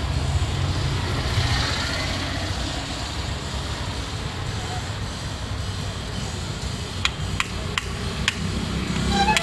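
Motor vehicle engine running with a steady low rumble, joined over the last couple of seconds by a handful of sharp clicks.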